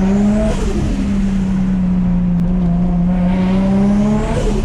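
Nissan Skyline R33's built, turbocharged RB25DET straight-six pulling under boost, revs rising and then dropping sharply twice, about half a second in and near the end. Each lift-off brings a brief hiss of turbo flutter and screamer-pipe wastegate.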